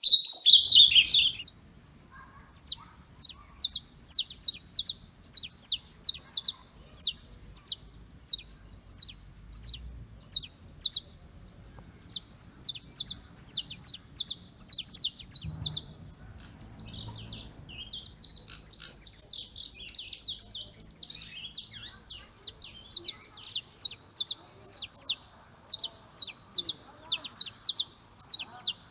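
Songbird singing: a loud high burst of notes at the start, then a long run of short, high, downward-slurred notes about two a second, turning into denser twittering about halfway through.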